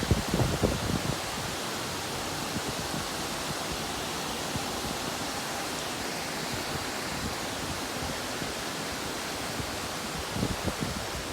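Heavy rain falling in a steady hiss. Low buffeting gusts come in during the first second and again near the end.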